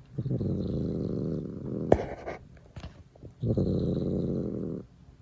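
Cat purring close to the microphone, in long rumbles that come and go with its breaths. There is a short sharp click about two seconds in.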